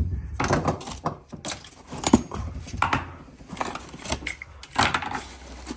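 Objects being rummaged through and moved around in a cluttered shed: an irregular string of knocks, clunks and rattles, the sharpest about two seconds in.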